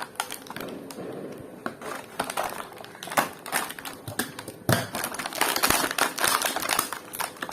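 Handling of toy vehicles and their plastic packaging: irregular clicks and taps, turning into denser rustling and crinkling in the second half.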